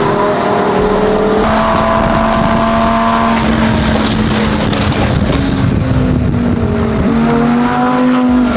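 Twin-turbo Lamborghini Huracán V10 engine running under way, its note holding fairly steady and creeping up, with a couple of changes in pitch.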